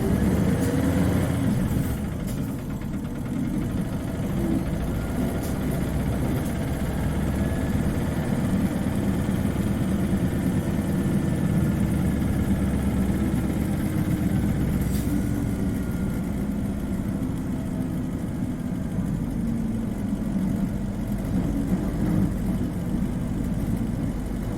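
Isuzu Cubic KC-LV380N city bus engine and drivetrain running, heard from inside the cabin. A faint whine rises and falls in pitch as the bus moves. This bus is known for an unusually high-pitched engine note compared with other Cubics.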